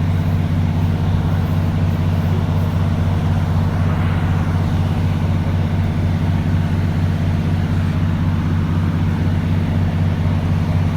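On-board noise of a Class 150 diesel multiple unit running at speed: a steady low engine drone under a constant rumble of wheels on track.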